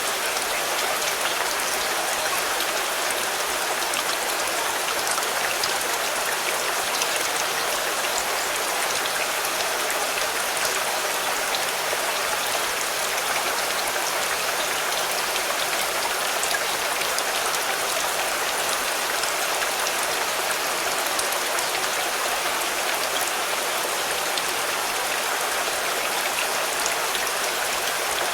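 Steady rain drumming on a car, an even hiss of many drops with fine ticks of single drops hitting the bodywork.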